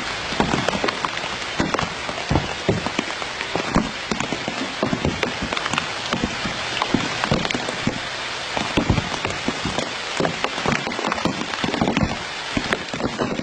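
Steady, dense patter of many small irregular taps over a hiss, like rain falling on a surface.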